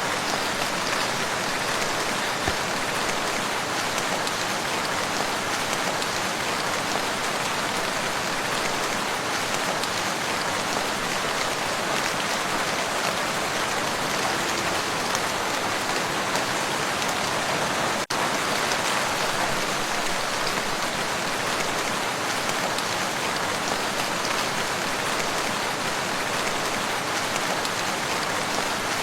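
Steady rain falling on a lake and its shore, an even hiss of many drops, with one momentary dropout about eighteen seconds in.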